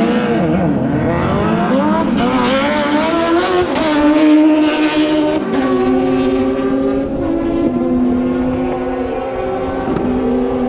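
Drag-racing vehicle's engine at full throttle, loud, its pitch climbing over the first few seconds and then dropping in steps, as at gear changes.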